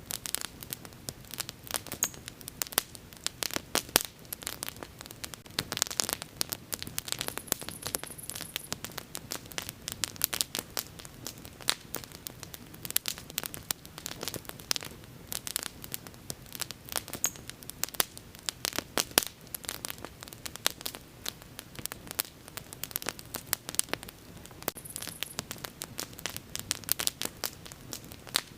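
Wood bonfire crackling, with many sharp, irregular pops and snaps coming close together over a faint low background of burning.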